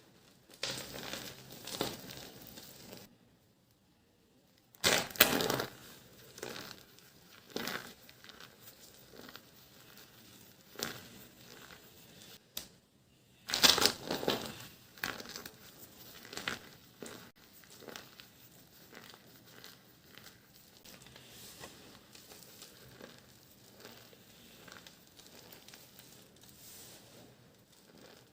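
Dry soap being crushed: irregular crunching and crumbling, with the loudest crunches about five seconds in and about halfway through, and softer crackling after that.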